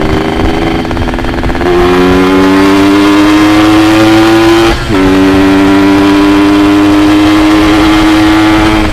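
Yamaha RX-King's two-stroke single-cylinder engine opening up under hard throttle about two seconds in, its pitch climbing steadily. Its note dips briefly about five seconds in as it shifts up a gear, then it climbs again.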